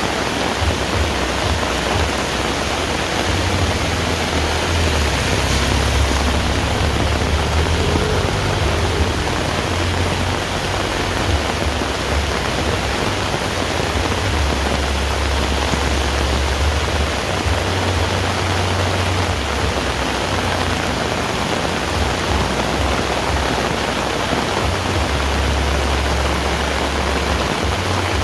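Heavy rain falling steadily, an even, dense hiss, with a low rumble that comes and goes underneath.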